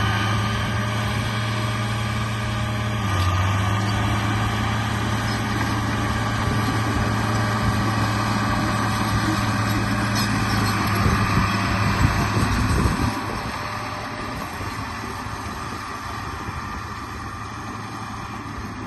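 RC bulldozer running with a steady low engine-like drone, rougher and louder until about two-thirds of the way through, then quieter.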